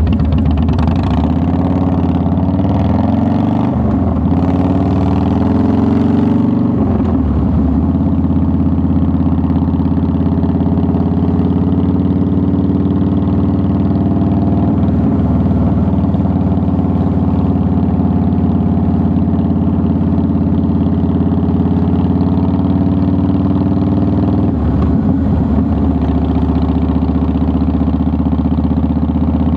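Harley-Davidson Softail Deluxe's air-cooled 45-degree V-twin running under way. Over the first several seconds the engine note rises and falls as the bike changes speed, then it settles into a steady cruise, with a brief change in pitch near the end.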